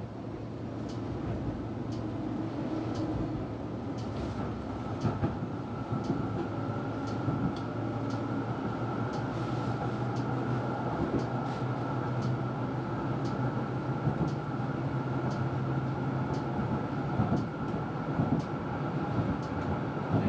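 Electric tram running along its tracks, heard from inside: a steady rumble with a hum and a higher tone, and short sharp clicks about once a second.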